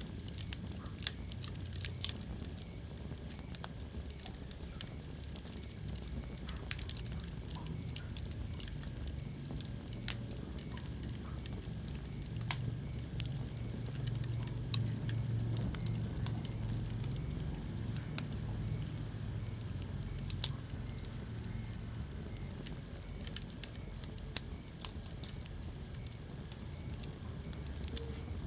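Wood fire burning in a fireplace: irregular sharp crackles and pops over a low, steady rumble of flames that swells a little midway.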